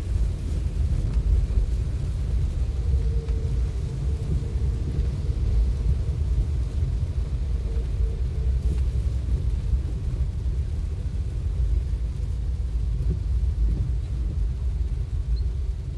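Steady low rumble of a vehicle driving through heavy rain, with road and rain noise blended into one continuous drone.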